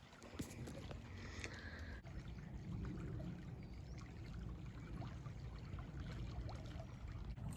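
River water flowing: a steady, low rushing with a few faint ticks over it.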